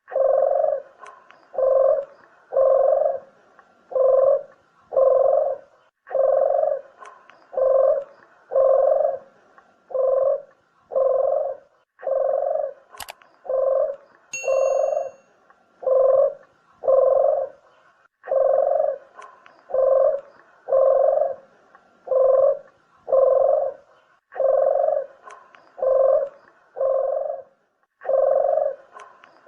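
Puter dove (a collared dove) cooing: a steady run of low coos, about one a second, in phrases of five or six with short breaks between them. It is the dove's call as played to lure other doves. A brief sharp click and a short high chirp come about halfway through.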